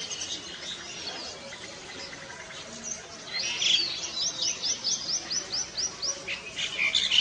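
A bird chirping, with a quick run of about ten short, high, repeated notes around the middle and a burst of calls near the end.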